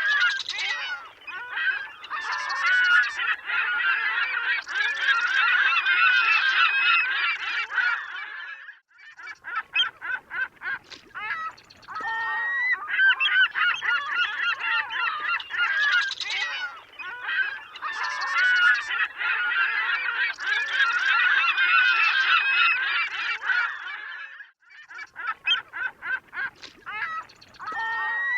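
A flock of gulls calling, many cries overlapping into a dense chorus. The chorus thins twice to a few scattered single calls before building up again.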